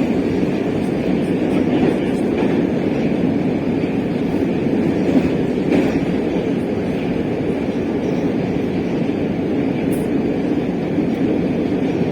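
Moscow metro train running between stations, heard from inside the carriage: a steady rumble of wheels on rails with a few faint clicks.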